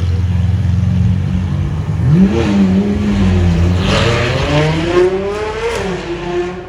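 Car engine revving and accelerating. There is a quick rev about two seconds in, then the pitch climbs steadily for about two seconds and drops back near the end.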